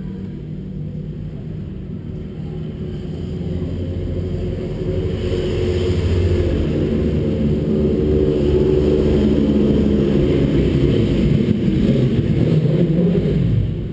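Sport motorcycle engine heard from on board under way, growing louder over the first few seconds and then holding steady. Near the end its pitch falls as it eases off.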